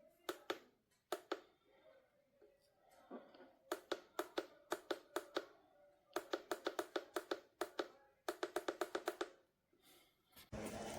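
Runs of quick, sharp clicks from a portable jump starter's air compressor controls, about six a second with pauses between runs. Near the end the built-in tyre compressor starts running with a steady hiss.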